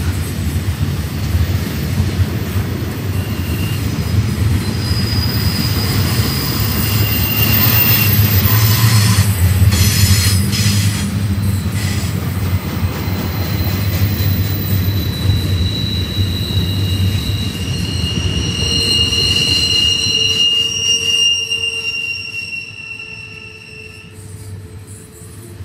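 Double-stack container train's well cars rolling past, a steady low rumble of steel wheels on rail. High-pitched wheel squeal comes and goes over it, mostly in the second half, and the rumble drops off about 22 seconds in.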